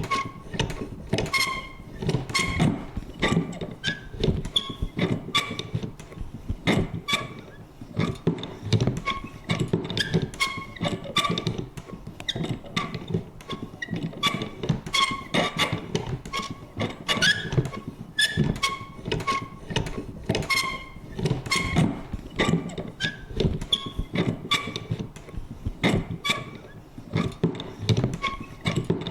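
Vintage paper punch clicking and creaking over and over: quick irregular clicks, a few a second, mixed with short high squeaks.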